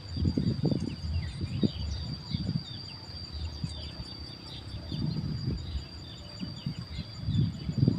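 A steady high insect trill with many quick, short high chirps from small birds over it, and irregular low rumbling bumps that are loudest near the start and again near the end.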